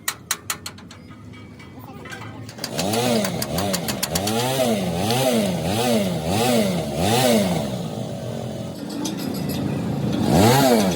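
A few sharp knocks, then an engine revved up and down over and over, its pitch rising and falling about once every 0.7 seconds; it drops back, then revs again near the end.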